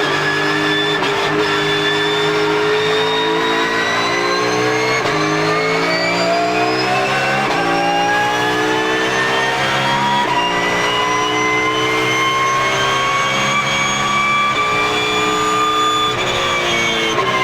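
Porsche GT3 Cup race car's flat-six running hard under load, its pitch stepping every few seconds as it shifts, with a high gear whine rising steadily as speed builds.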